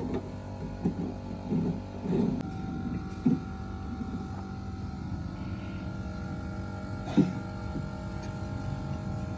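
A steady machine drone at a constant pitch, with a few sharp knocks in the first few seconds and another about seven seconds in.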